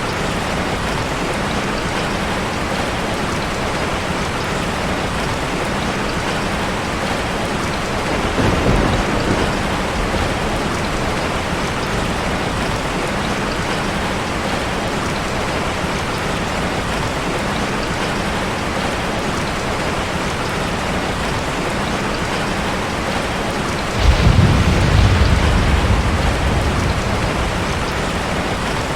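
Heavy rain falling steadily on a car, with thunder: a brief low rumble about nine seconds in, and a louder peal that starts suddenly about twenty-four seconds in and fades over a few seconds.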